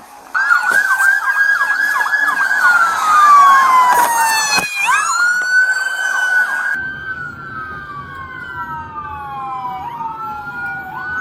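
Police car siren, loud and close, starting in a fast yelp and then switching to a slow wail that falls and rises over a few seconds.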